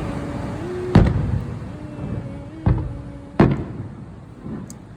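Fireworks going off: three sharp bangs, the loudest about a second in, then two more around the three-second mark, each trailing into a rolling echo, with fainter pops near the end.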